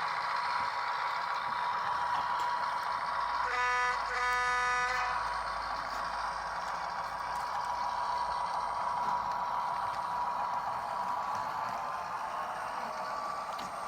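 Diesel locomotive sound from an ESU HO sound decoder, played through a small Bluetooth speaker: the prime mover runs steadily after throttling up. About three and a half seconds in, a horn blast sounds for about a second and a half.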